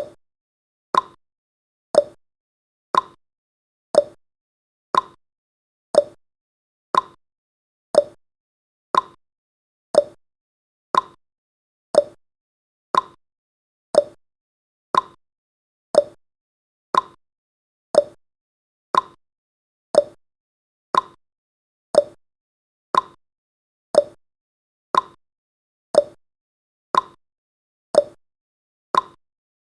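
Ticking sound effect of a countdown timer: one short, sharp tick every second, each dying away quickly.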